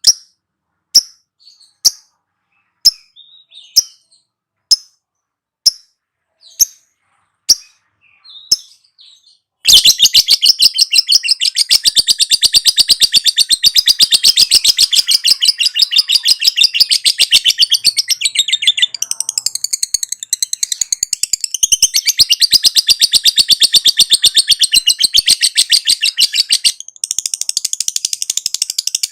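Lovebird giving single sharp chirps about once a second. About ten seconds in it breaks into a long, very rapid, unbroken chattering trill, the 'ngekek' song, which dips briefly near the end and carries on.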